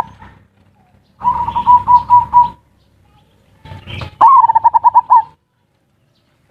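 Zebra dove (perkutut) cooing: two phrases, one about a second in and one near four seconds in, each a quick run of staccato pulsed coos at one steady pitch.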